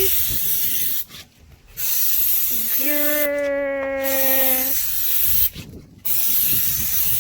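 Aerosol spray paint can hissing in three long bursts with short pauses, spraying paint onto a car's body. In the middle a voice holds a steady note for about two seconds over the hiss.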